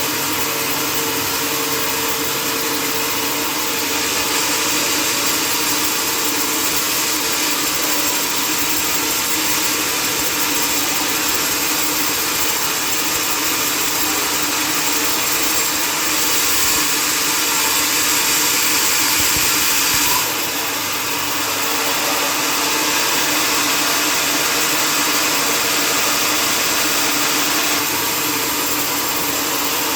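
Sawmill saw running steadily, cutting mahogany, with a high hissing rush over a steady hum. It grows louder about halfway through, then drops back suddenly a few seconds later.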